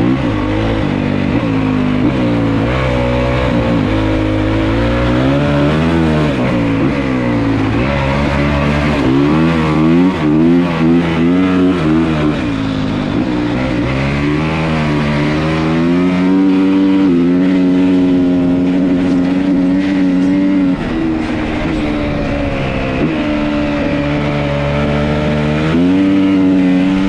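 A 2022 Honda CRF450R Works Edition dirt bike's single-cylinder 450 four-stroke engine running under load, its note climbing and falling as the throttle is worked and held at steady revs in the later stretches.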